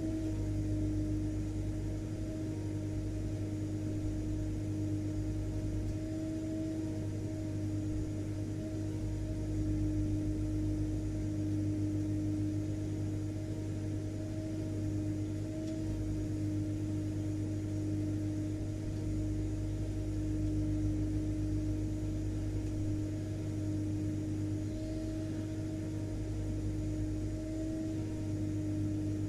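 Vacuum cleaner (hoover) motor running steadily: a constant drone with a strong low hum and a steady tone.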